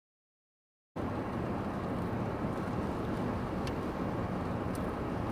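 Storm wind buffeting the phone's microphone: a steady low rumble that cuts in abruptly about a second in, out of dead silence, with two faint ticks near the end.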